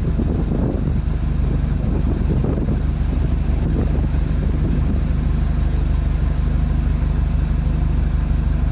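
Exhaust of a Renault Megane Estate GT220's 2.0-litre turbocharged four-cylinder, heard from the rear, running at low, steady revs like an idle. Wind buffets the microphone for the first few seconds, then dies away.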